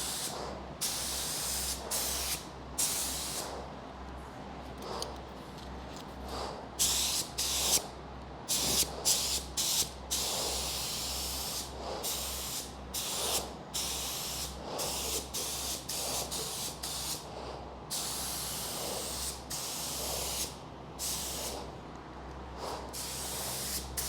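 Air spray gun spraying epoxy primer, hissing in repeated trigger pulls of varying length with short gaps between them, over a steady low hum.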